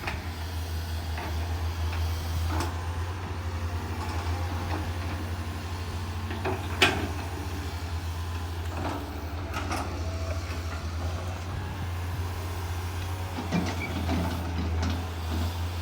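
Hydraulic excavators' diesel engines running steadily, with scattered knocks and clanks from the digging work; one sharp clank about seven seconds in.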